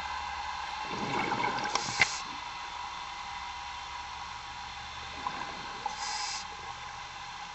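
Underwater sound of a scuba diver breathing through a regulator: a short hiss of inhalation twice, about four seconds apart, with a rush of exhaled bubbles and a sharp click near the first, over a steady machinery hum.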